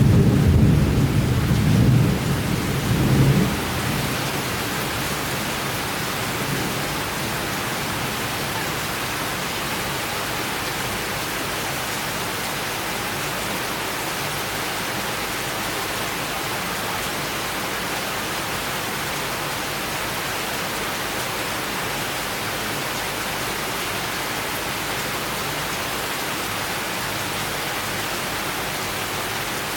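Summer thunderstorm: a low rumble of thunder dies away over the first few seconds, leaving steady, even rain.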